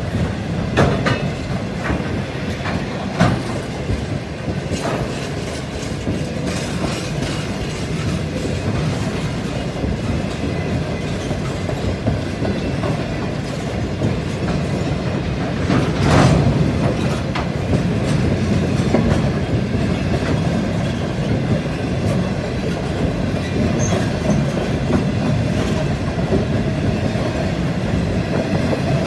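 Freight train of empty flat wagons rolling past, a steady rumble of wheels on rail with scattered sharp clicks and knocks, the loudest about sixteen seconds in.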